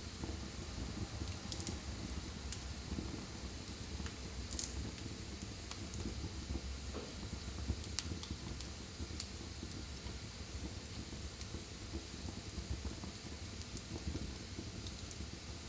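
Wood fire burning in a fireplace: a steady low rumble and hiss with scattered crackles and pops, one sharper pop about four and a half seconds in.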